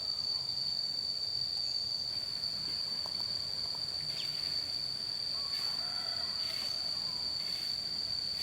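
Insects droning outdoors, one steady high-pitched tone that does not let up.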